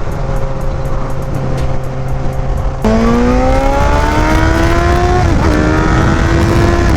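Yamaha FZ1's inline-four motorcycle engine cruising steadily, then the throttle opens about three seconds in and it gets louder and rises in pitch as the bike accelerates. A short dip a little after five seconds is an upshift, and it then runs on steadily at the higher pitch.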